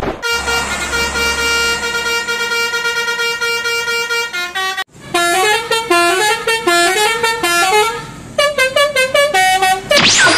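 Basuri-style telolet bus horn playing: one long steady horn note for about four seconds, then after a brief break, quick repeated phrases of stepped notes rising in pitch, the typical 'telolet' melody.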